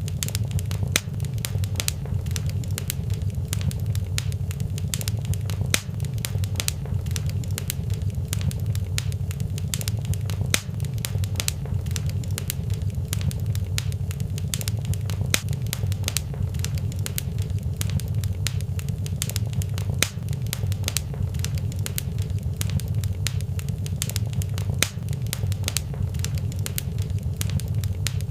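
Fireplace fire crackling steadily, with many quick sharp pops over a constant low rumble.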